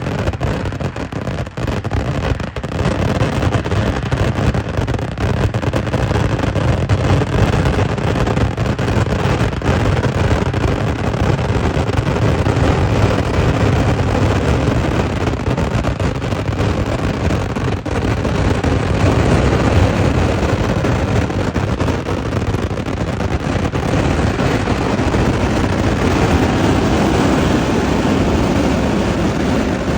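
Kerala temple fireworks (vedikkettu): a dense, continuous barrage of firecrackers going off so rapidly that the blasts merge into one steady rumble without a break.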